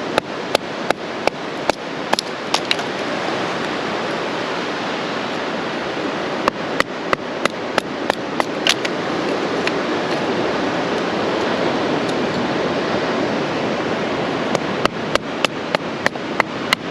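Old cedar being split into kindling with runs of sharp, rapid knocks, about three a second: at the start, again around the middle, and near the end. Steady surf hiss fills the gaps.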